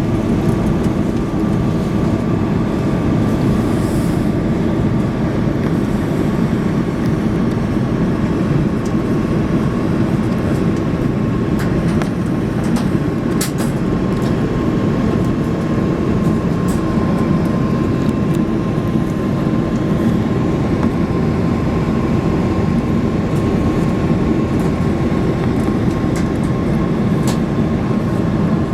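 Steady cabin noise inside an Airbus A330-300 in flight: a dense engine and airflow rumble with a faint steady whine that drifts slightly lower in pitch, and a few faint clicks.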